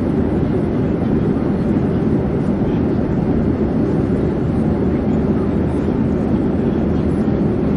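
Airplane in flight: a steady, unbroken low drone with no change in pitch or level.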